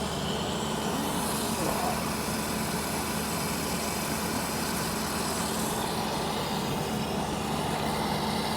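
An engine running steadily with an even low hum, over a wash of outdoor noise.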